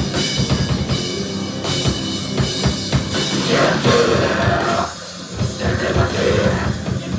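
Live rock band playing a heavy, metal-style song: pounding drum kit and bass drum under distorted guitars, with a voice coming in over the band partway through.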